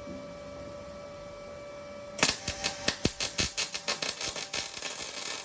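MIG welder (Unimig 165) arc crackling and sputtering in rapid, irregular bursts as a floor panel is welded in overhead, starting abruptly about two seconds in. Before it there is only a steady electrical hum with a faint tone.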